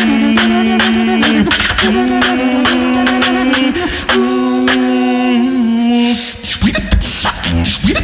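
Beatboxing: a held sung melody line that steps in pitch, over a steady rhythm of percussive clicks. About six seconds in, the melody drops out and the beat carries on alone, with deeper bass hits.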